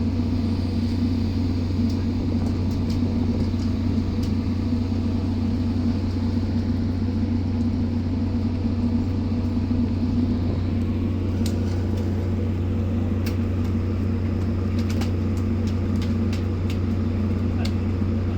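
Steady low drone of a boat's engine running, with a few short clicks and clinks in the second half.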